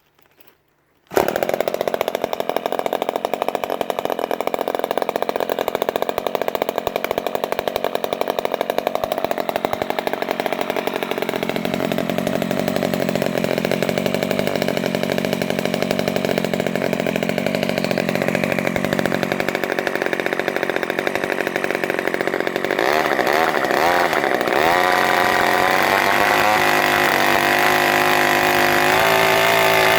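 Quadra 35 cc single-cylinder two-stroke model aircraft engine with points ignition starting up about a second in and running steadily. Its pitch shifts and wavers higher for the last several seconds as the speed changes.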